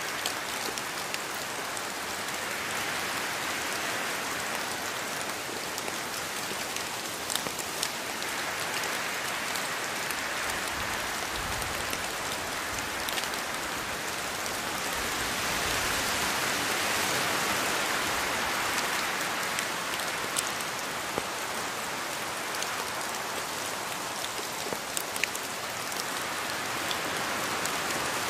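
Steady rain falling, with scattered sharp drop impacts, growing slightly heavier a little past halfway through.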